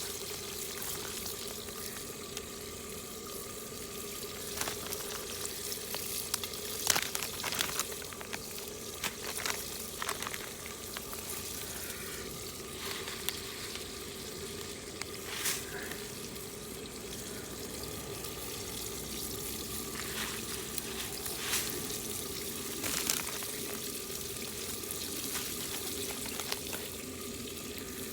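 Food sizzling steadily in a ceramic pot over a wood fire, with scattered sharp crackles and clicks.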